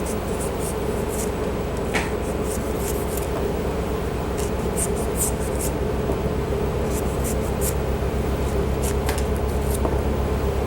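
Fresh ginger root being peeled: short, quick scraping strokes in several clusters. A steady low hum runs underneath the whole time.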